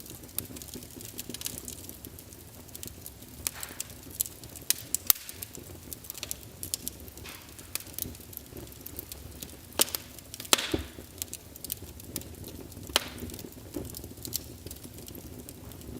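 Wood fire of burning logs in a fireplace crackling, with sharp irregular pops over a soft steady hiss; the loudest pops come a little past the middle and again a few seconds later.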